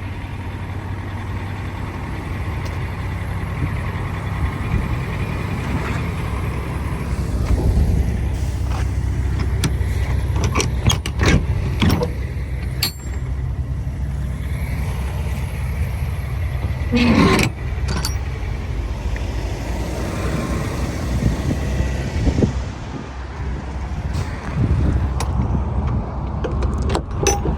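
Semi-truck's diesel engine running at low speed while the truck is maneuvered. A few short, sharp clicks and hisses stand out over it through the middle.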